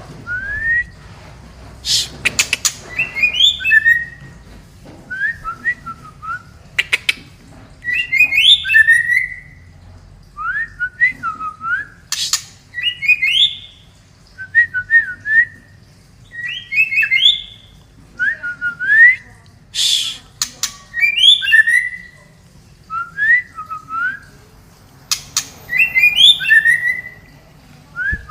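White-rumped shama (murai batu) singing: short whistled phrases of gliding, rising and falling notes, one every one to two seconds, with sharp clicks between some of the phrases.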